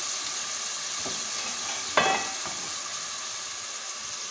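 Onions, tomatoes, green chillies and ginger sizzling steadily in ghee and a little added water in a steel kadhai. A single metallic clank rings out about two seconds in.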